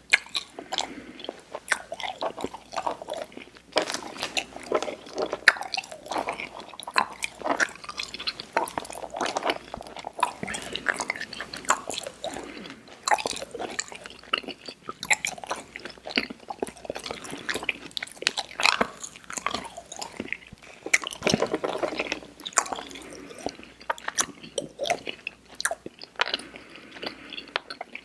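Close-miked mouth chewing of Airheads Xtremes sour chewy candy, with a dense, irregular run of small clicks that goes on without a break.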